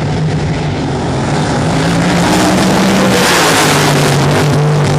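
Racing drag boat engine running loud at a fairly steady pitch that steps up and down slightly. A rush of noise swells about three seconds in and fades near the end.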